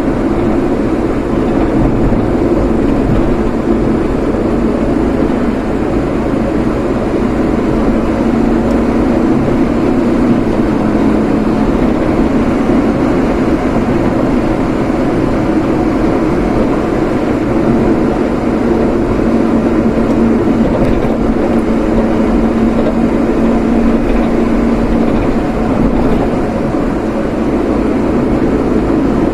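Steady road and engine noise of a vehicle driving at an even pace, with a faint hum that comes and goes.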